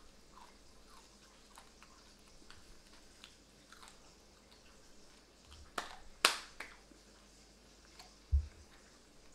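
Close chewing of whole batter-fried yellow bass, bones and all: soft crunching throughout, with two sharp, loud crunches a little past halfway. A short, dull low thump comes near the end.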